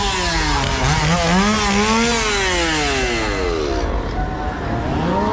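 Gas chainsaw engine being revved in bursts. Its pitch falls, climbs again about a second in, holds, then drops away, and it starts to rise once more near the end.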